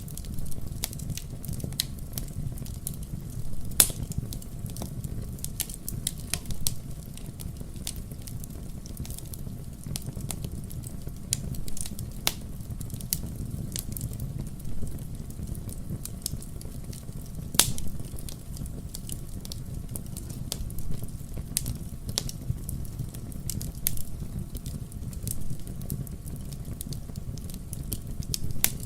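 Wood fire burning in a fireplace: a steady low rumble of flame with irregular sharp crackles and pops, a few louder snaps among them.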